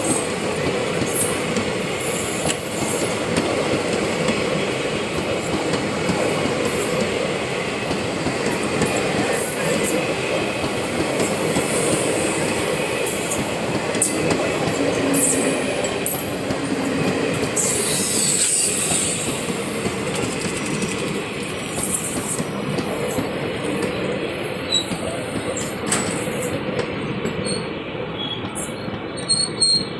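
Indian Railways passenger train coaches rolling slowly past, wheels rumbling and clattering on the rails with irregular knocks. The sound grows a little quieter and duller over the last several seconds.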